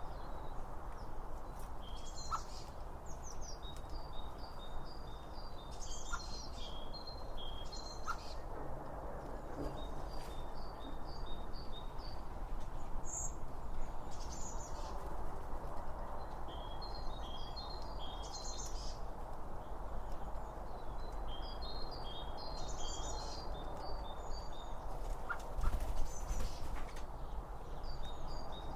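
Songbird singing a short phrase of quick, stuttering high notes, repeated every few seconds, over steady background noise.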